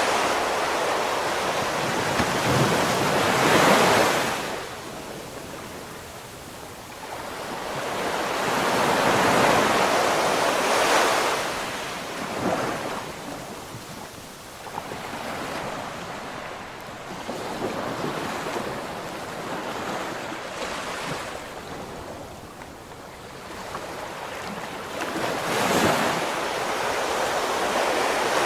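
Ocean surf: waves breaking and washing in, a rushing noise that swells and recedes. Bigger breakers come about 4 seconds in, around 10 seconds and near the end, with a calmer, quieter stretch in between.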